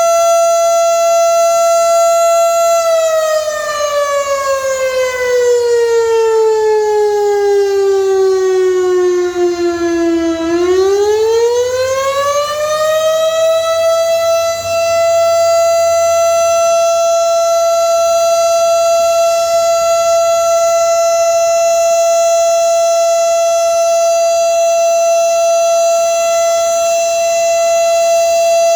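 Outdoor tornado warning siren sounding a steady drill tone. A few seconds in, its pitch sags slowly to about half over several seconds, then swings back up within about four seconds and holds steady again.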